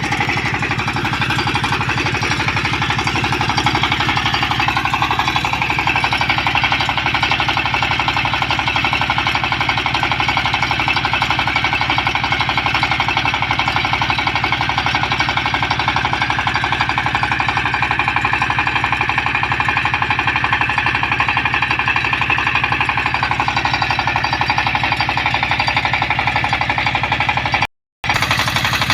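Diesel engine of a soil-digging machine running steadily under load, with a fast, even pulsing beat. The sound cuts out for a moment near the end.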